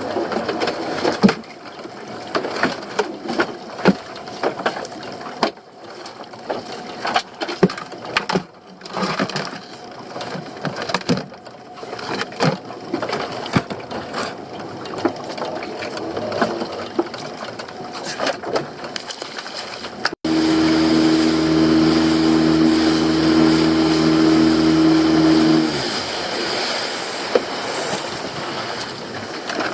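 Irregular knocks and clatter of pots and catch being handled aboard a small crab and lobster boat, over wind and water noise. After an abrupt cut about two-thirds of the way in, a motor runs steadily for about five seconds and then stops.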